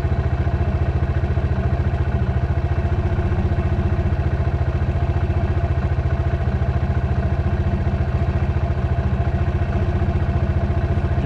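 Dirt bike engine running at a steady speed, its pitch holding even with no revving.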